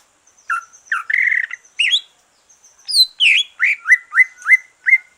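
Cucak ijo (green leafbird), a bird just through its moult, singing clear whistled notes and slurs that end in a quick run of about six rising notes.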